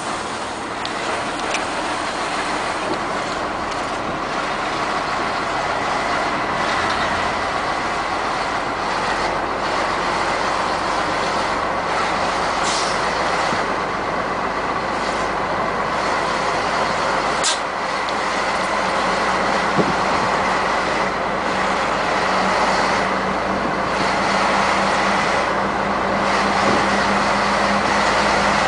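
Heavy trucks running on a highway: a steady mix of engine and tyre noise that goes on without a break.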